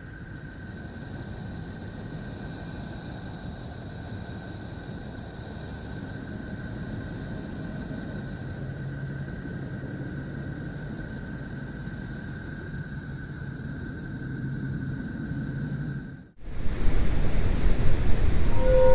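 Space 'planet sound' audio: a steady, rushing rumble like surf or wind, with two faint held high tones, growing slightly louder. About 16 s in it cuts off abruptly and a louder, fuller droning sound with steady tones takes over.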